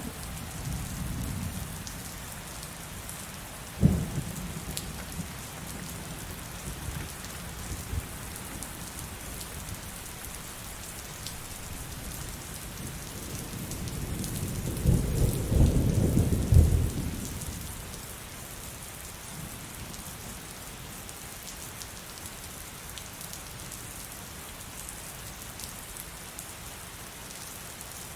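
Heavy rain falling steadily in a thunderstorm, with a sharp crack of thunder about four seconds in and a deep thunder rumble that builds, peaks and fades around the middle.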